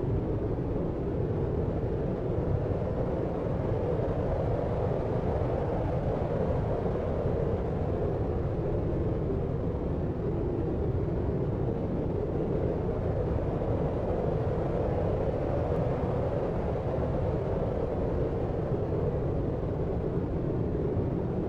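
Steady, deep sleep noise of the brown-noise kind: an even low rumble with a soft hiss above it, unchanging throughout with no separate sounds.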